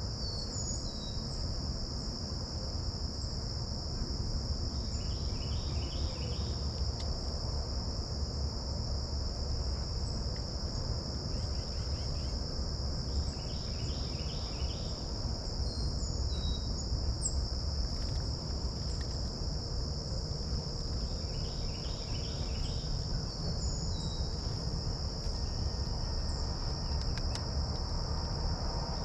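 Steady, unbroken high-pitched insect chorus, with a low rumble underneath. Short bird chirps and a few brief rapid trills break in now and then.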